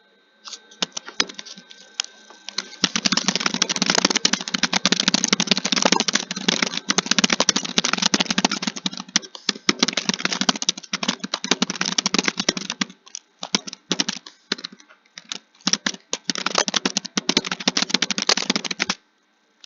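Fast, continuous typing: a dense clatter of keystrokes that starts sparse, thickens about three seconds in, breaks off briefly a few times past the middle, and stops shortly before the end.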